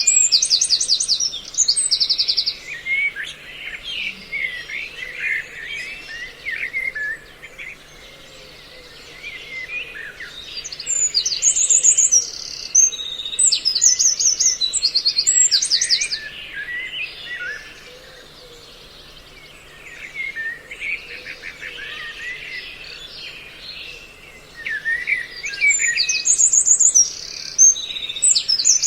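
Mixed recording of several songbirds calling, used as a lure to draw birds to glue traps: bursts of fast, high trills of repeated notes alternate with lower, tumbling chatter, with brief quieter lulls twice.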